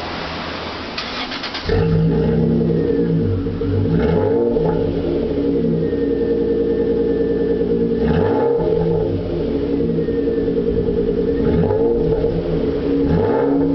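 The Vauxhall Frontera Sport's 3.2-litre DOHC V6, breathing through a custom stainless steel exhaust, starts about two seconds in and then idles. The revs are blipped briefly several times.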